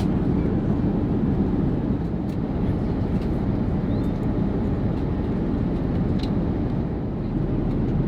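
Steady low roar of an Airbus A380's cabin in flight: airflow and engine noise with a few faint clicks.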